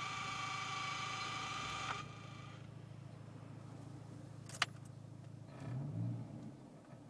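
Car sound system giving off a steady electrical whine of several fixed pitches over a low hum, the unwanted noise in the audio. It cuts off about two seconds in, followed by a sharp click, a brief low rumble and another click near the end.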